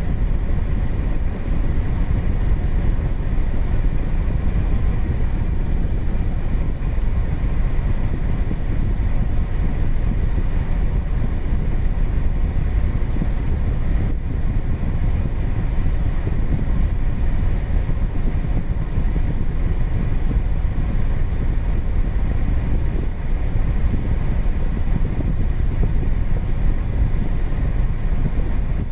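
Car air-conditioning blower running at full fan speed, a steady rush of air with a faint even whine, heard inside the cabin of a Suzuki Palette with the engine running.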